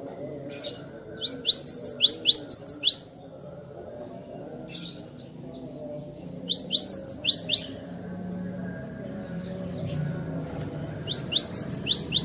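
Gelatik batu (cinereous tit) singing: three bursts of quick, sharply rising whistled notes, five to seven notes in each burst, with pauses of a few seconds between them.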